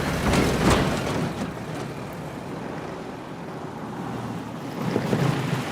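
A car driving, its engine and rushing air making a steady noise that is loudest about half a second in and rises again near the end.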